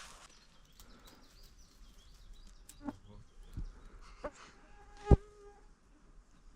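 Quiet stretch with faint scattered ticks. About five seconds in there is a sharp thump, followed by a brief buzzing of an insect close to the microphone.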